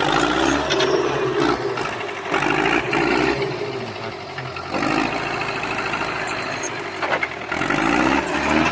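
Tractor engine running and revving up in several surges a few seconds apart.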